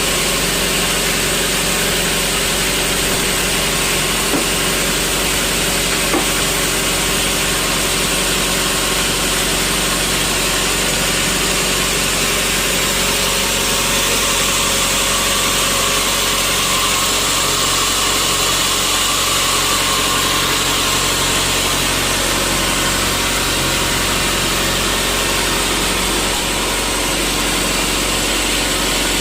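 Sawmill machinery running steadily: a continuous motor drone with a hiss, while teak stumps are being sawn.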